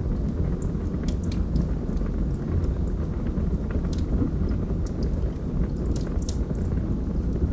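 Logs burning in a fireplace: a steady low noise of the flames with scattered sharp crackles and pops from the wood, a few clustered around the middle.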